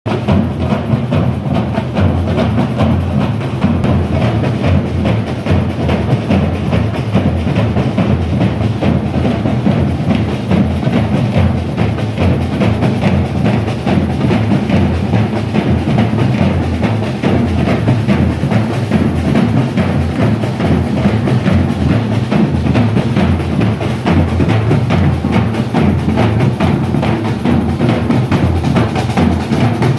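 A drummer playing fast, continuous drumming with many quick strikes and a strong low end, keeping up without a break.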